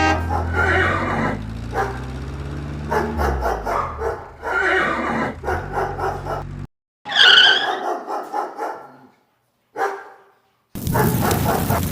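Horses neighing and a dog barking, over a low steady engine hum that stops abruptly about two-thirds of the way in. The sound drops out suddenly a few times.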